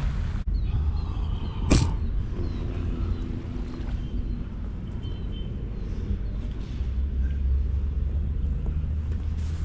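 Steady low rumble of wind and surf on the microphone at the sea's edge, with one sharp knock about two seconds in.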